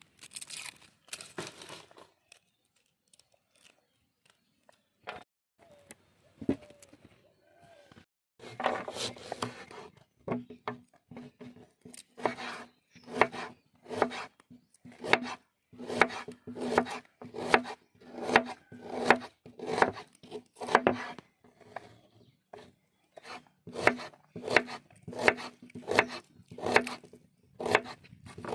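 Food being chopped with a knife on a board: a run of sharp, regular strokes, a little more than one a second, starting about a third of the way in. Before them come a few faint rustling and tearing sounds.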